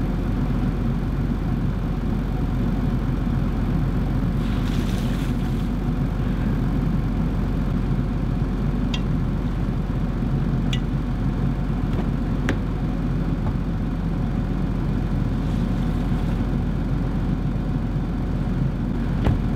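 Car engine idling steadily while it warms up on a frozen morning. Over it come two short rushes of noise and a few sharp clicks as water is poured over the iced windscreen.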